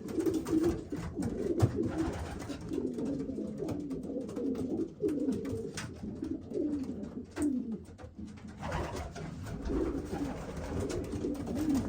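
Several racing pigeons cooing together, their low wavering coos overlapping throughout, with a few light taps among them.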